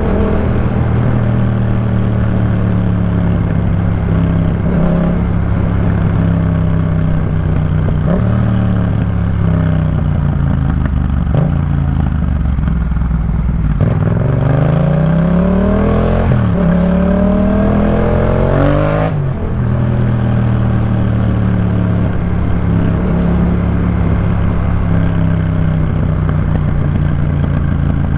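Yamaha MT-07's 689 cc parallel-twin engine through a Jeskap K4 full aftermarket exhaust, riding at steady revs. About halfway through it accelerates: the revs climb, dip at a gear change and climb again. Near two-thirds of the way through they drop, and it settles back to steady running.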